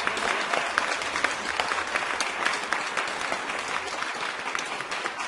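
A crowd applauding: many hands clapping in a dense, continuous patter that gradually softens.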